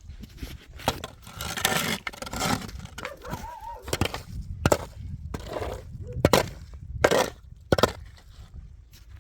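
A series of sharp cracks and knocks, about six irregular blows with the loudest in the second half, after a stretch of scraping, rustling noise in the first few seconds.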